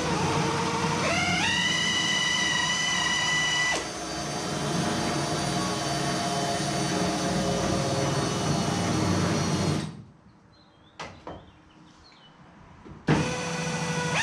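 Handheld power tool running: its motor speeds up about a second in, runs steadily, changes note near four seconds, and stops about ten seconds in. After a few seconds of near quiet with a couple of clicks, it starts again sharply near the end.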